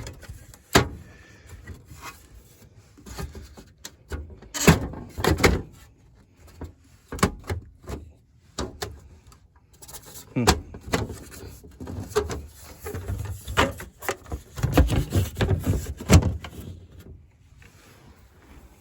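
Irregular knocks, clunks and scraping from fitting a pleated media filter into a Honeywell SpaceGard air cleaner cabinet and handling its sheet-metal housing, with rustling between the knocks.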